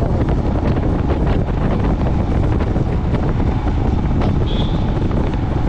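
Steady wind rush buffeting the microphone on a moving motorcycle, with road and engine noise underneath.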